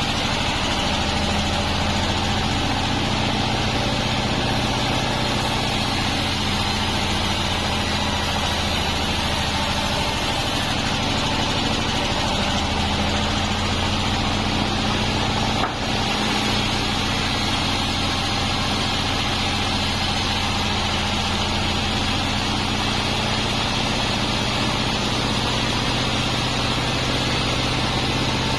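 Industrial band sawmill running steadily, a constant low machine hum under a sustained higher whine. A single brief click about halfway through.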